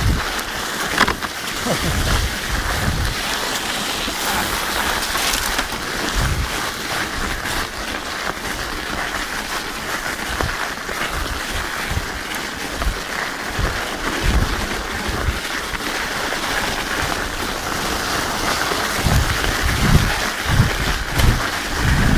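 Studded mountain-bike tyres rolling over an icy trail, a steady rushing noise, with wind buffeting the microphone in low thumps that come more often near the end.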